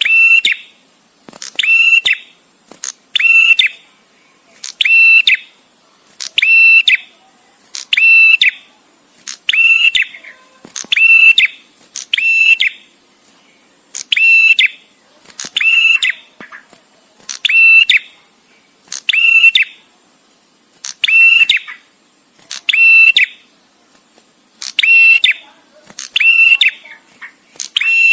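Male prenjak tamu calling: one short, loud, shrill whistled call repeated at a steady pace, a little under one call every two seconds, with short pauses between.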